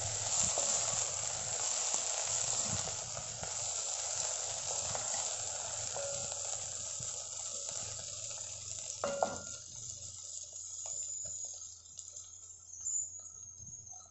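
Cut okra frying and sizzling in oil in a steel pot, stirred with a wooden spatula. The sizzle thins out over the last few seconds, with one short knock about nine seconds in.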